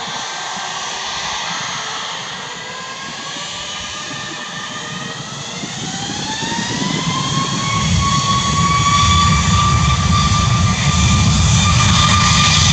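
Boeing 737 MAX 8's CFM LEAP-1B turbofan engines spooling up for takeoff: a whine rises in pitch over several seconds and then holds steady, while a deep rumble builds and the sound grows louder from about eight seconds in.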